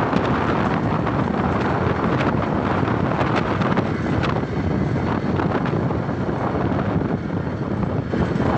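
Wind noise on the microphone from riding a motorcycle, with the motorcycle's running and road noise mixed in, steady throughout.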